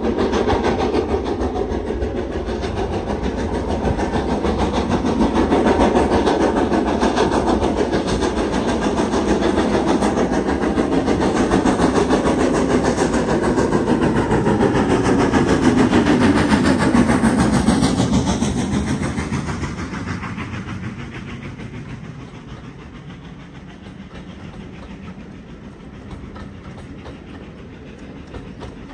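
A train running close by with rumble and wheel clatter. The sound swells, a note falls in pitch as it goes past, and it fades away in the last third.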